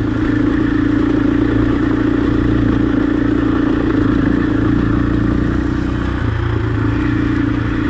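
Husqvarna dirt bike engine running at fairly steady revs while riding, with some clatter.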